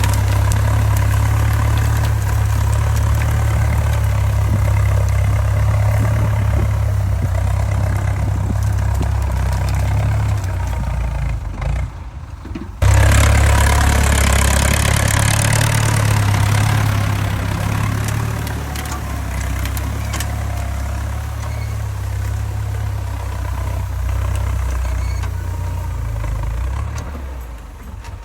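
Farm tractor engine running steadily, as when plowing a paddy field. It dips for a moment about halfway through and then comes back suddenly at full level.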